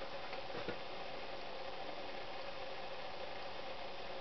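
Steady faint hum of workshop room tone, with two light clicks in the first second, from engine parts being handled.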